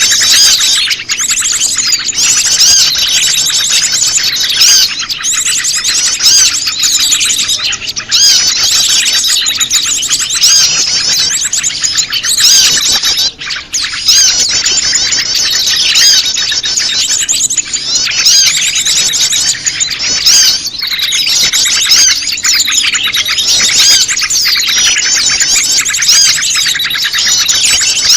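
Dense, unbroken chirping and trilling of many small birds, a layered bird-lure recording of prenjak lumut calls mixed with a noisy flock of small birds, made to draw wild prenjak lumut in. The calls are high, rapid and overlapping.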